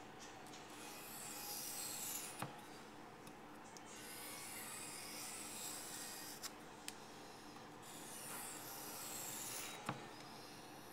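Knife blade stroked along a 1000-grit waterstone: a series of long, hissing scraping passes, with sharp clicks after some of them.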